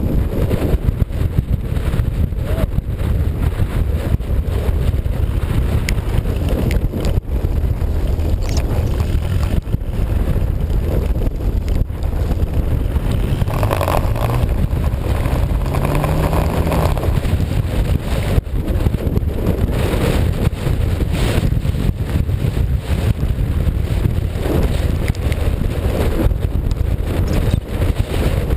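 An off-road vehicle driving, its engine a steady low rumble under heavy wind buffeting on the microphone.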